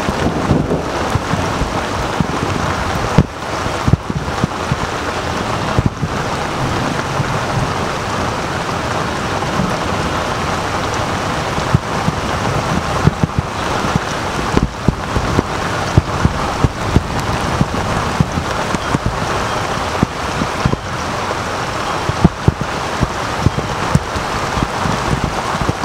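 Steady rain falling during a thunderstorm, with frequent irregular sharp thumps of raindrops hitting the microphone's cover.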